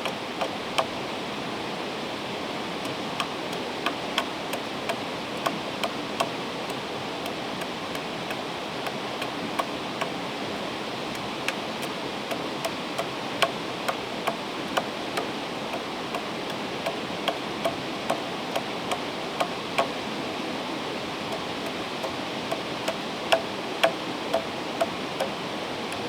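Wood fire crackling with irregular sharp pops, several a second, over the steady rush of flowing river water.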